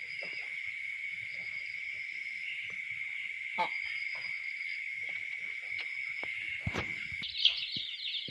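Insects, likely crickets, trilling in a steady, unbroken high-pitched drone, with a few faint knocks and one sharp click near the end.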